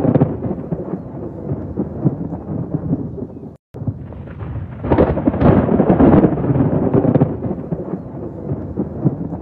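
Rolling thunder over rain. A rumble fades out, the sound cuts to silence for a split second about three and a half seconds in, and a second loud rumble builds about five seconds in and slowly dies away.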